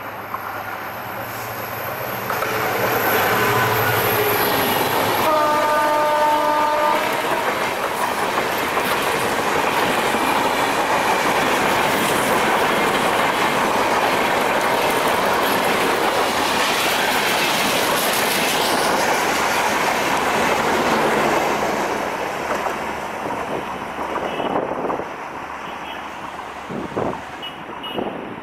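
EMD GT42ACL diesel locomotive passing close by with its engine rumbling, sounding its horn in one blast about five seconds in. Then the train's coaches run past with wheels clattering on the rails, the noise fading after about twenty seconds as the train moves away.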